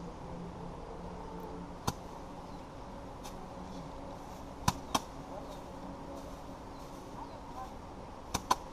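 Sharp, hard thwacks of rice paddy being threshed by hand. There is one strike about two seconds in, a quick pair near the middle, and another quick pair near the end.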